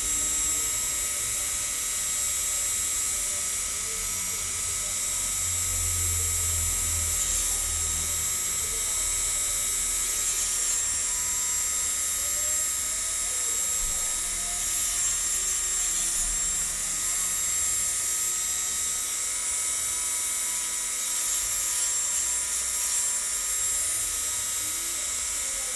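Small electric hand grinder running steadily with a high-pitched whine, as used for edging a spectacle lens by hand.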